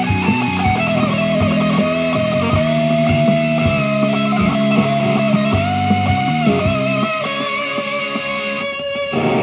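Electric guitar improvising a slow lead melody of long held, sliding notes over a backing track with bass and drums. The drums and bass drop out about seven seconds in, leaving the guitar line.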